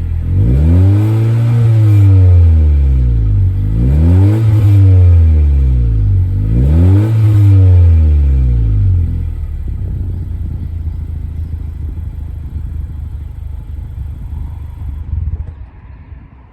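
Honda CR-V Turbo's 1.5-litre turbocharged four-cylinder, breathing through a Kakimoto Class KR aftermarket exhaust, revved three times in quick blips, then settling to a steady low idle. The sound fades away near the end.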